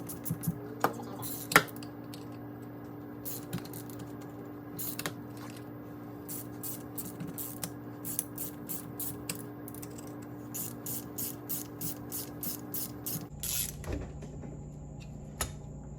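Metal parts and hand tools clicking and clinking during steering box reassembly: a few sharp clinks in the first couple of seconds, then a run of light, evenly spaced clicks at about two a second, over a steady shop hum.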